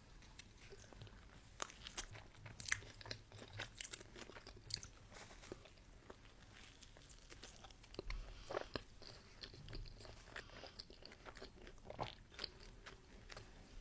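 Close-miked eating: faint chewing with scattered sharp crunches and mouth clicks from bites of food.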